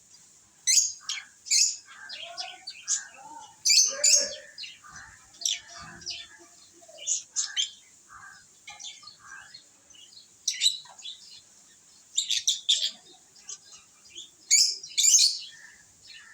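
Pet lovebirds chirping: short, sharp, high chirps coming in irregular clusters, with the loudest bunches about a second in, near four seconds, and around twelve and fifteen seconds.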